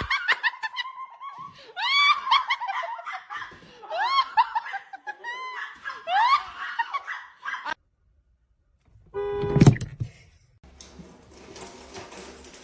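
High-pitched laughing: a string of repeated calls that rise in pitch, stopping about two-thirds of the way through. It is followed a couple of seconds later by a single loud thud and then a faint hiss.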